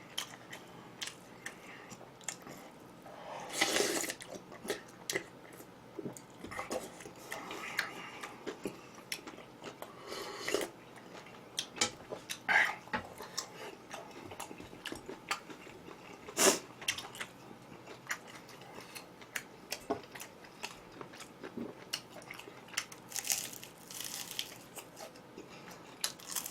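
Close-up eating sounds: food being bitten and chewed, with scattered sharp clicks of utensils against dishes and a few louder crunchy bites.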